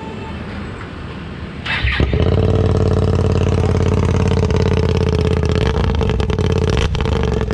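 Hyosung GT-R V-twin motorcycle engine being started with its exhaust silencer removed. It turns over and catches about two seconds in, then runs steadily and loudly on the open pipe.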